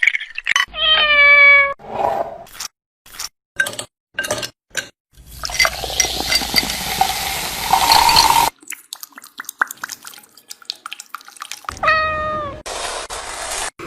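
A cat meowing twice, each a single meow that falls in pitch, one near the start and one near the end. Between them come scattered sharp clicks and clinks, and about three seconds of loud rushing noise.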